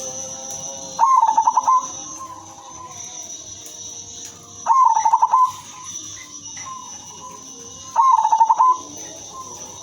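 Female zebra dove cooing: three short phrases of rapid, stuttered cooing notes, about three and a half seconds apart.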